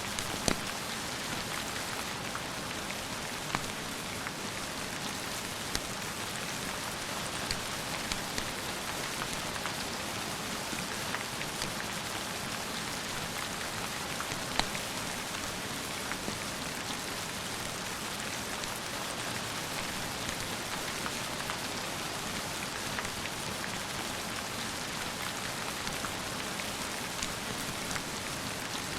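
Steady heavy rain falling, with scattered sharp clicks and pops over it, the loudest about half a second in and about halfway through.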